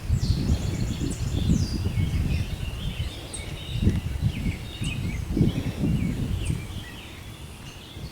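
Birds chirping and singing, many short calls and quick whistles, over a low uneven rumbling noise that eases off near the end.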